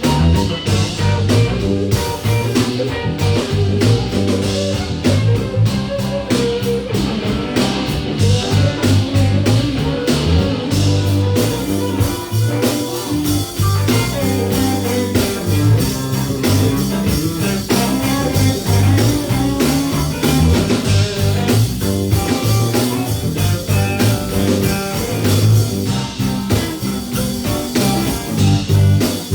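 A band playing a blues-rock number with electric guitar and drum kit over a steady, prominent low bass line.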